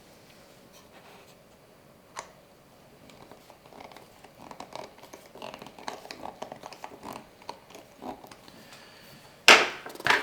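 Small screw being driven by hand into a 3D-printed plastic battery box: faint scraping and clicking as it turns, then two loud knocks near the end.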